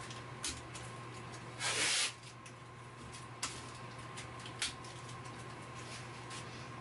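Adhesive tape pulled off the roll in one short rasping strip about one and a half seconds in, with a few light clicks of handling, over a steady low hum.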